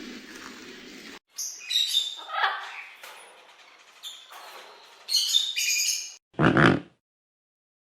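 Animal calls: high chirps that glide in pitch, then a short, louder low grunt near the end.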